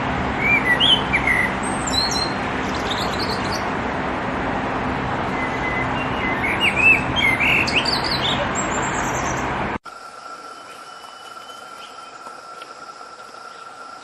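Short bird chirps and calls in two clusters, near the start and again around the middle, over a steady noisy background with a low hum. About ten seconds in the sound cuts abruptly to a quieter background with one steady thin tone.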